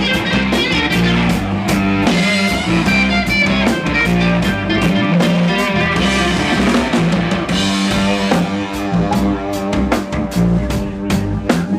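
Live rock band playing: drum kit with steady, regular hits over guitar and sustained low bass notes.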